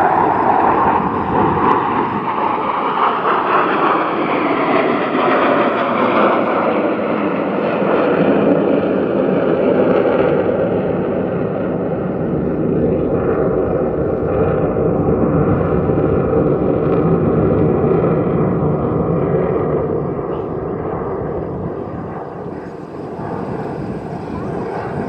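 Jet engine roar from the Blue Angels' F/A-18 Super Hornets flying a loop in line-abreast formation. The pitch falls over the first few seconds as the jets pass, the roar holds steady, and it fades somewhat about twenty seconds in.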